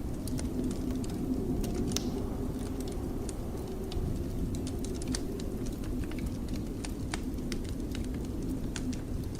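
Wood fire crackling with scattered sharp pops over a steady low rumble of blizzard wind.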